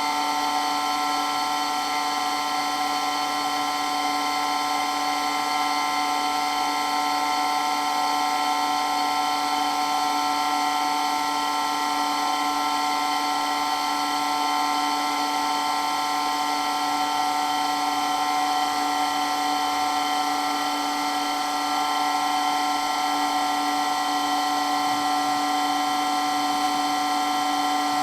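Water pump running with a loud, steady whine that holds several fixed tones and never changes.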